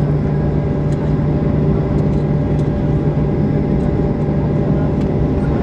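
Steady cabin hum inside a Boeing 737-800 on the ground: a strong low drone with a few fainter steady higher tones over it.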